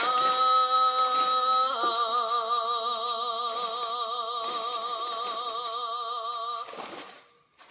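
Background music: a single singing voice holds one long note, then drops to a lower note sustained for several seconds with a steady vibrato. It ends with a short burst of noise and fades out near the end.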